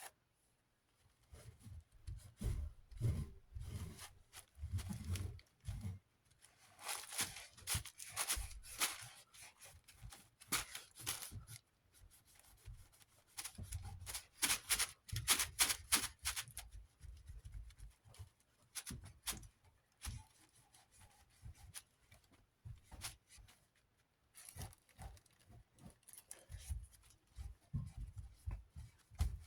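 Scratchy rubbing and clicking from handling and cleaning a desk fan's wire rear guard, in irregular strokes and clusters with soft bumps of the guard being moved.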